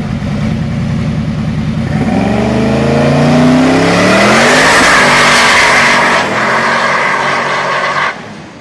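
High-performance car engine idling with a steady beat, then revving hard from about two seconds in as the car does a burnout, the engine pitch climbing while the rear tyres screech loudly. The sound cuts off sharply about half a second before the end.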